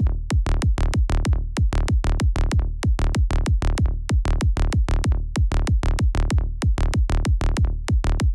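Electronic kick drum and synth bass loop playing: a quick, even pulse of punchy kick hits over a steady low bass, cutting off suddenly at the end.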